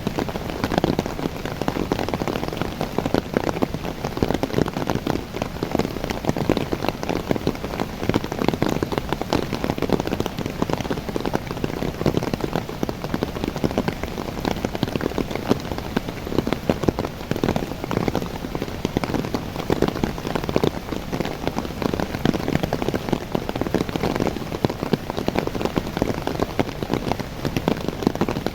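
Steady rain falling on young coffee trees: a dense, even patter of countless drops on the leaves, with no let-up.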